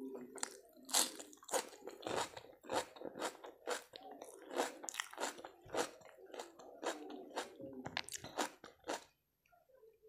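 Close-up crunching and chewing of raw red onion and salad: a quick run of crisp bites and chews that stops near the end.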